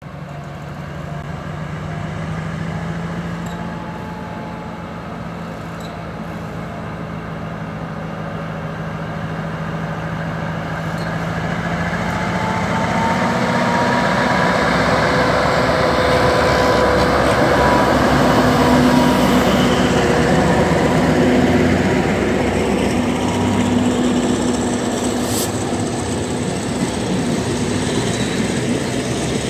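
Diesel locomotive hauling a passenger train, approaching and passing close by. The engine drone grows louder to a peak about two-thirds of the way through, then gives way to the rolling noise of the coaches.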